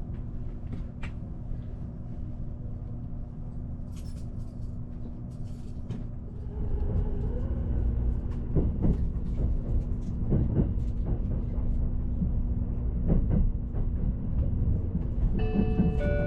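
Cabin sound of an Azusa limited express electric train: a steady hum while it stands, then about six seconds in it starts moving, with a brief rising motor whine and growing low rumble, and irregular knocks of the wheels over rail joints and points. Background music comes in near the end.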